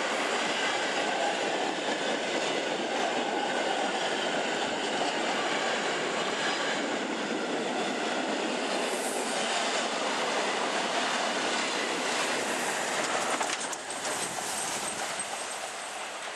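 A train passing close by, a steady loud rush of wheels on the rails that drops away about 14 seconds in as it moves off.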